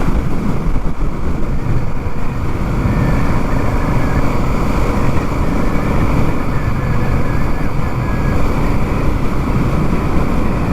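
Honda Africa Twin's parallel-twin engine running at a steady cruise, nearly buried under heavy wind noise on the microphone.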